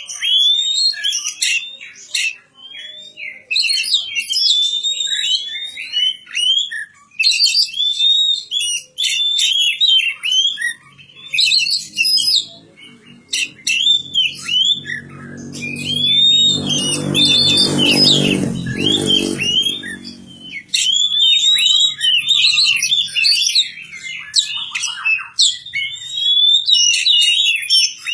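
Oriental magpie-robin (kacer) singing continuously, a rapid run of varied whistles, chirps and harsh notes. A low drone swells and fades away about halfway through.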